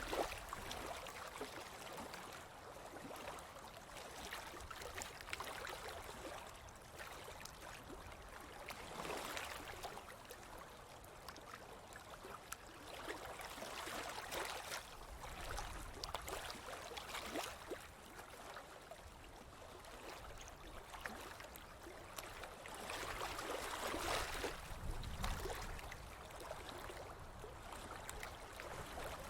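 Ocean waves washing onto a beach: a steady wash of surf that swells and eases every several seconds, the biggest wave about three-quarters of the way through.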